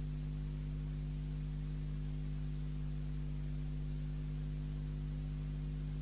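Steady electrical mains hum, a low buzz with several overtones that holds unchanged throughout.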